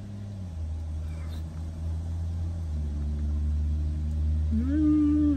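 Car engine idling, heard from inside the cabin as a steady low hum that steps down slightly about half a second in. Near the end a short, rising hummed "mmm" of someone eating.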